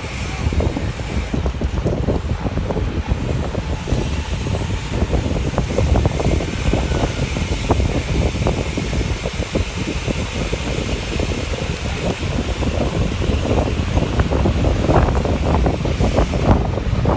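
Wind buffeting the microphone of a camera carried on a moving bicycle: a loud, continuous low rumble with irregular gusty flutter.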